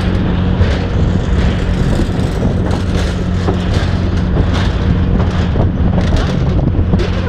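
Steady low rumble and hum of a moving vehicle, with scattered clicks and rattles.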